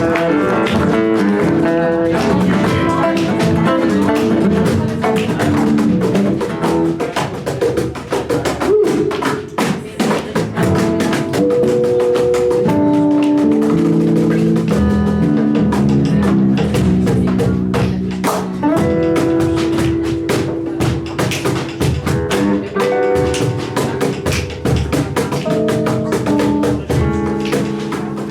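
Live band playing with electric guitar and drum kit: chords and melody lines over a steady beat.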